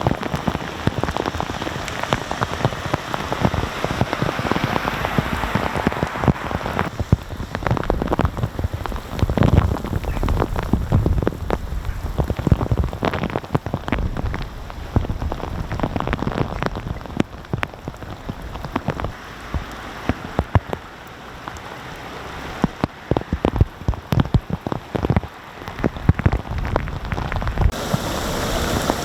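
Heavy rain falling, with many close drops striking and splattering on surfaces.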